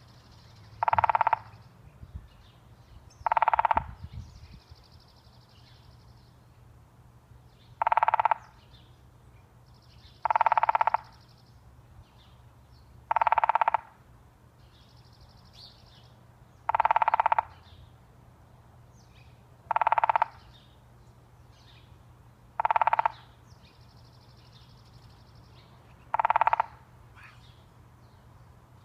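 Pileated woodpecker drumming on an apple tree: nine short rolls of very rapid beats, each under a second long, repeated every few seconds.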